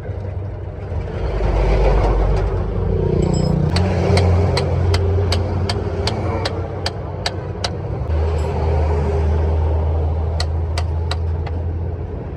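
A heavy vehicle engine running with a steady low rumble, its pitch dropping to a lower steady note about eight seconds in. Over it, a run of sharp clicks or taps, about three a second, from about three and a half to eight seconds in, and a few more near the end.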